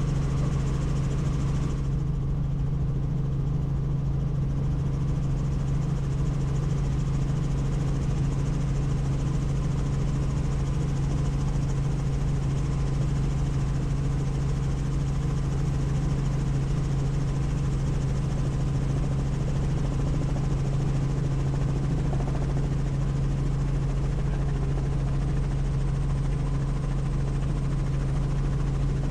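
Helicopter in flight: the steady drone of rotor and engine, dominated by a strong, constant low hum.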